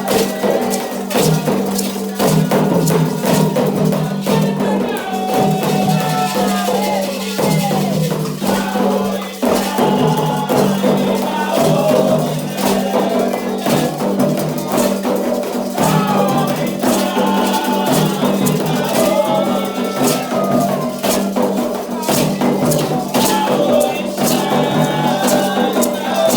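Candomblé ritual music: voices singing a chant over hand percussion with rattles, continuing without a break.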